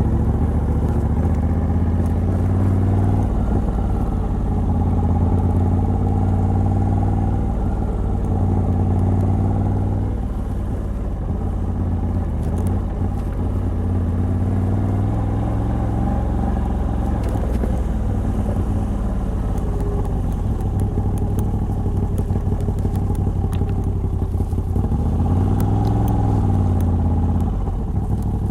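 Moto Guzzi V85TT's air-cooled transverse V-twin running under way through its stock exhaust fitted with a Mistral decat pipe, its pitch rising and falling with the throttle. A little before the end it revs up and drops back.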